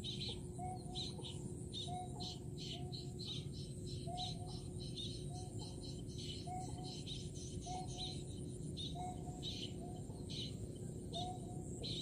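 Birds calling in a rice field: short pitched notes repeated every half-second to second, with clusters of higher chirps between them, over a steady low background noise.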